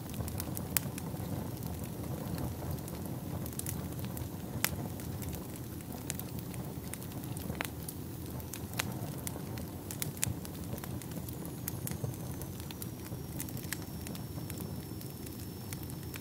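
Wood fire burning in a fireplace: a steady low rumble of flames with irregular sharp crackles and pops from the burning logs, a few louder snaps among them. A faint thin high whistle comes in about eleven seconds in and holds.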